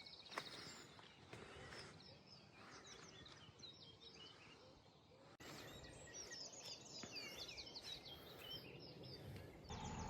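Faint outdoor ambience of small birds singing and chirping over a low background hum. There are a couple of brief clicks at the very start, and the background steps up slightly and abruptly about five seconds in.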